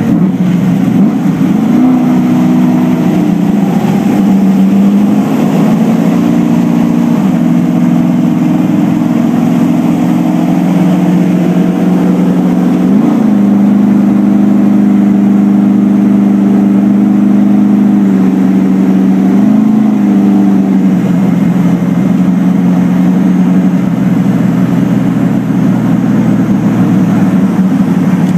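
GM LS-series V8 running hard at speed, heard from inside the car, with road noise. Its pitch climbs and drops several times in the first dozen seconds, then holds nearly steady.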